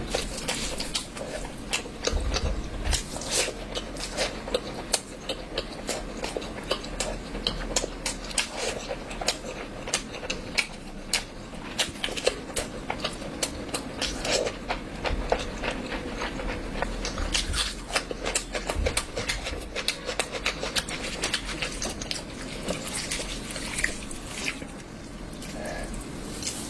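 A person eating close to the microphone: chewing and smacking, with many quick irregular mouth clicks throughout.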